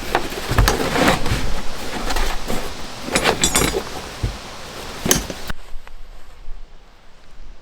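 Handling noise: a run of knocks and clinks over a rushing hiss, cutting off suddenly about five and a half seconds in.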